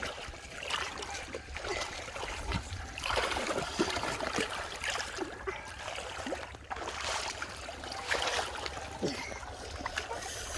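Shallow muddy water sloshing and splashing in irregular surges as hands and legs move through it.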